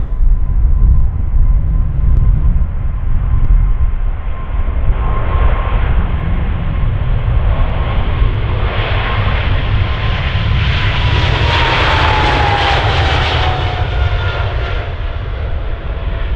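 Jet airliner passing by, its engine whine holding steady and then dropping in pitch as it goes past about twelve seconds in, over a continuous low rumble.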